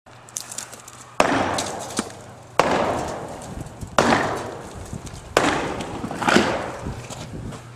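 Sledgehammer blows on a silo wall: four heavy strikes about a second and a half apart, each trailing off over a second or so, with a few lighter knocks between them.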